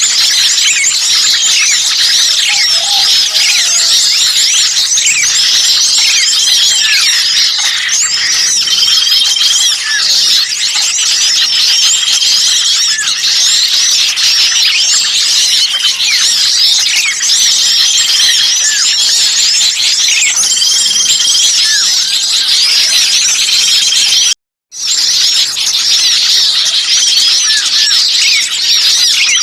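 Bird-lure recording of a noisy mixed crowd of small songbirds, many overlapping high chirps and calls at once. A short flat whistled note comes back every few seconds. The sound breaks off for a moment about 24 seconds in.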